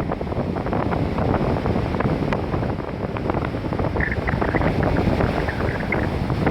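Wind buffeting the microphone over the steady rush of heavy surf breaking on a sandy beach.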